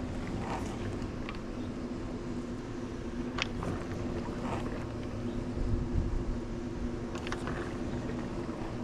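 Swimming pool pump motor running with a steady hum over a low rumble while the pool is vacuumed, with a few light clicks.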